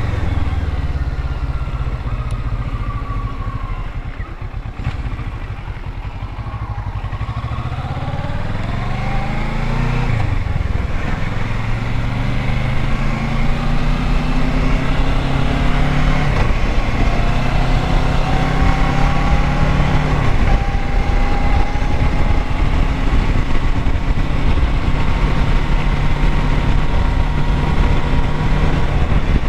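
Kawasaki Versys 650 parallel-twin motorcycle engine under way. Its revs fall for the first few seconds, then it pulls up through the gears: the pitch rises, drops suddenly at each shift about ten, sixteen and twenty seconds in, and then holds steady.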